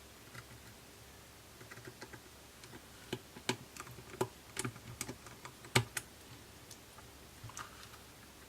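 Irregular small, sharp clicks and taps from tools and small metal parts being handled on an opened iPhone 6s during reassembly. Most fall in the middle stretch, with the loudest about six seconds in.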